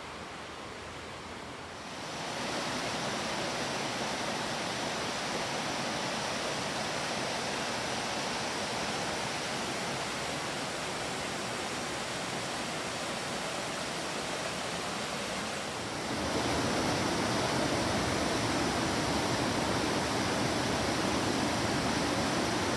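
Steady rushing of a waterfall. It gets louder in a step about two seconds in and again about two-thirds of the way through.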